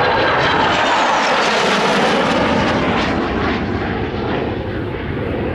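An airplane flying past, its engine loud, with a faint falling whistle about a second in; the high end of the sound fades away over the last few seconds as the aircraft moves off.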